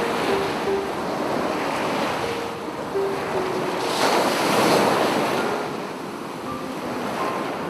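Sea waves washing onto a beach, one wave swelling loudest about four to five seconds in, with faint piano notes over the surf.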